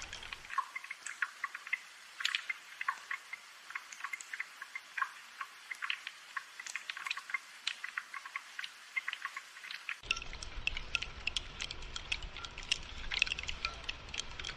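Rain dripping and pattering: many irregular, sharp drops. A low rumble underneath drops out shortly after the start and comes back about ten seconds in.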